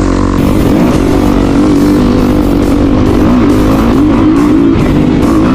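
Dirt bike engine running under load, its pitch rising and falling as the throttle is worked, with wind noise on the microphone.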